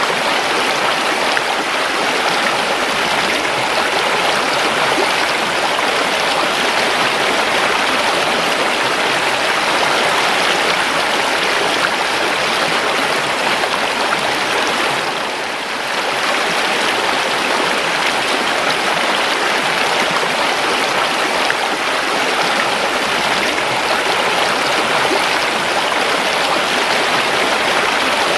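A river flowing: a steady rush of running water, with a brief dip in level about halfway through.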